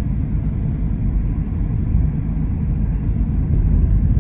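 Steady low rumble of a vehicle driving, engine and road noise with no sharp events.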